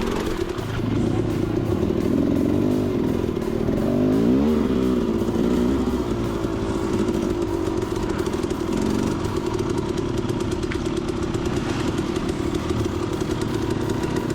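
Dirt bike engine running under load, its pitch rising and falling with the throttle in the first few seconds, then holding steadier.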